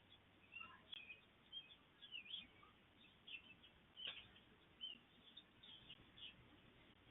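Faint outdoor bird chirps and calls: many short, high notes scattered through, with one sharper note about four seconds in.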